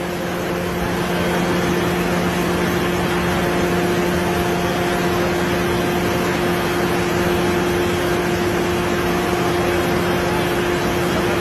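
A steady mechanical hum: constant noise with an unchanging low drone running through it.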